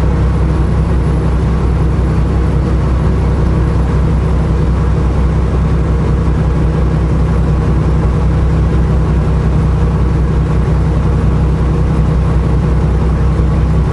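Semi truck's diesel engine heard from inside the cab, a steady low drone with road noise while the truck drives along the highway.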